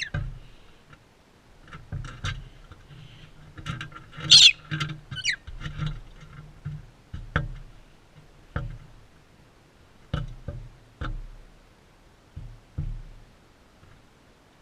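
Crimson rosellas feeding close to the microphone: irregular knocks and taps of beaks and feet on the feeder, with dull low thuds. About four seconds in, a brief burst of high squeaky calls with quick rising glides.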